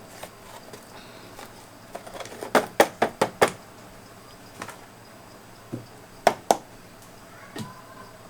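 Sharp knocks and clicks of household things being handled and set down while the fridge is unplugged and emptied: a quick run of about five a couple of seconds in, then a few single knocks.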